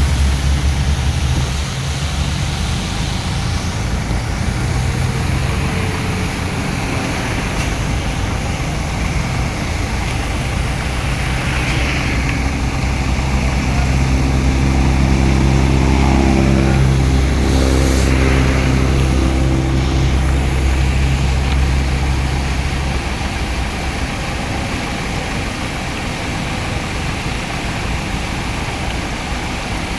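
Heavy diesel engines of earthmoving machinery running, with a steady low drone. Around the middle a second engine note rises and falls, and about 23 seconds in the low drone fades.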